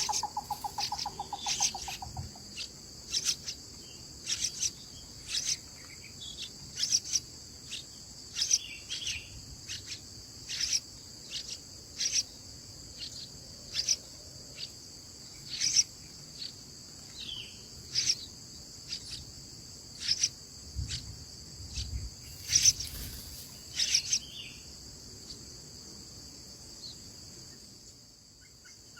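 Steady, high insect drone, like a chorus of crickets or cicadas, with short, sharp high chirps repeating about once a second. A brief, rapid trill sounds in the first couple of seconds.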